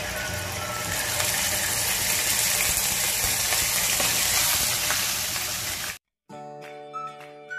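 Ginger-garlic paste sizzling in hot coconut oil in a wok while a spatula stirs it. The sizzle cuts off abruptly about six seconds in, and flute-like background music follows.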